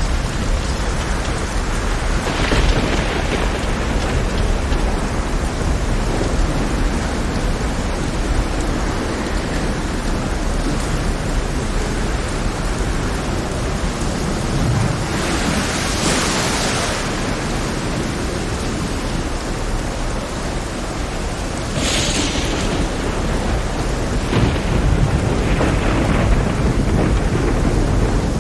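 Heavy rain pouring steadily over a low rumble of thunder. Several louder surges of rushing noise break through, the strongest about 16 and 22 seconds in.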